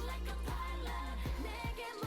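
K-pop dance track with female vocals over a driving beat of about four drum hits a second. The bass cuts out briefly near the end, then the beat comes back in.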